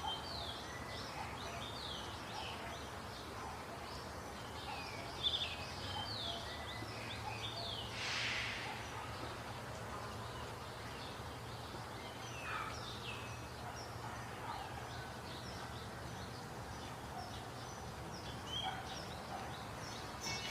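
Birds chirping, many short downward-sweeping calls overlapping, over a low steady hum. A brief hiss about eight seconds in.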